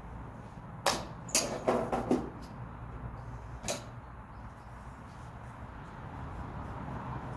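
Golf clubs striking balls: a sharp crack about a second in, a quick cluster of cracks over the next second, and one more near four seconds, over a steady low hum.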